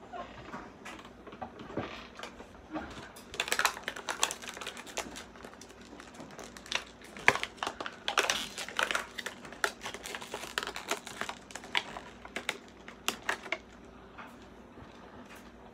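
Hands handling plastic and cardboard toy packaging, with irregular crinkles and sharp clicks, busiest from about three seconds in until near the end.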